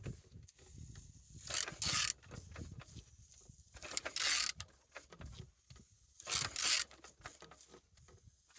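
Used engine being turned over by hand at the crankshaft, turning freely: three short bursts of hiss-like noise about two seconds apart as it is rotated.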